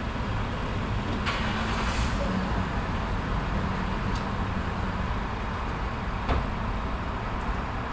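Gas station ambience: vehicle engines idling with a steady low rumble, broken by a few short sharp clicks, the loudest about six seconds in.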